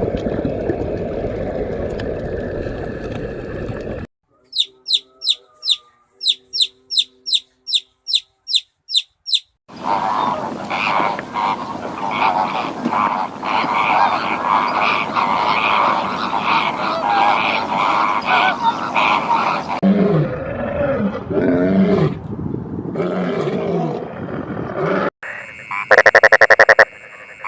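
A string of different animal calls, one after another: a run of about a dozen short, high chirps, then a long, dense chorus of many overlapping calls, then a few lower pitched calls near the end.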